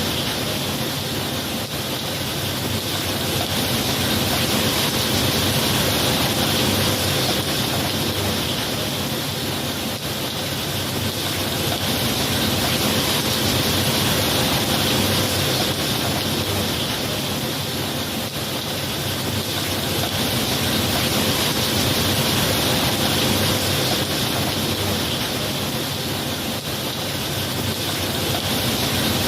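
Steady rain ambience with an even hiss that slowly swells and eases every eight seconds or so.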